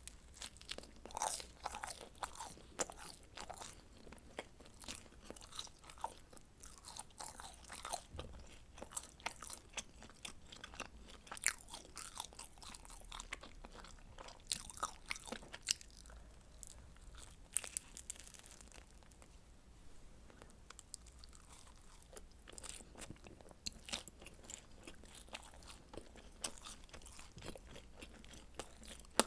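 Close-miked eating of pizza: chewing with irregular, crisp crunching bites.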